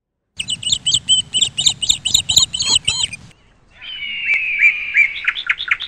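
Songbirds chirping: about three seconds of quick repeated chirps, then, after a short break, a thin falling whistle and a quick run of chirps.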